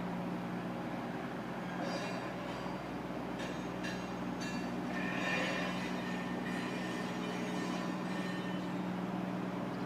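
Mitsubishi truck engine running at a steady speed, with a few light clicks and rattles about halfway through.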